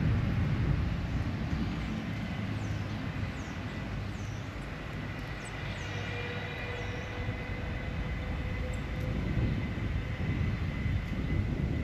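A steady low outdoor rumble, with several faint, short, high bird chirps in the middle.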